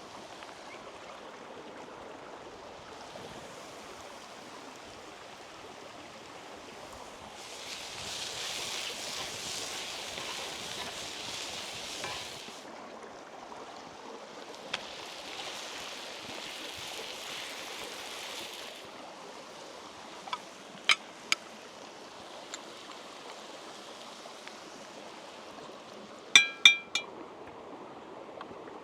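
Steady rush of running river water, with two stretches of louder hissing. A few sharp clicks come past the middle, and near the end three loud, ringing clinks, like metal or glass struck together.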